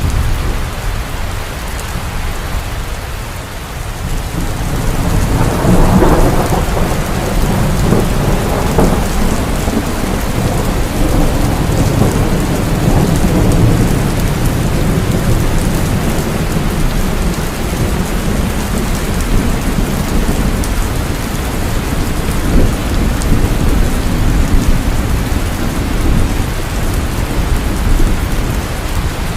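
Heavy rain pouring steadily, with thunder rumbling underneath. A long roll of thunder swells about six seconds in and rumbles on for several seconds before settling back into the rain.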